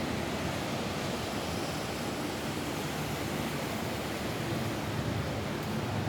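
Steady rain falling on a roof: an even, unbroken hiss with no separate drops or beats standing out.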